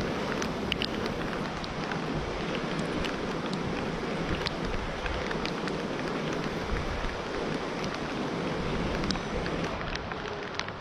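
Storm rain and wind: a steady rushing hiss, with scattered sharp ticks of raindrops hitting nearby surfaces.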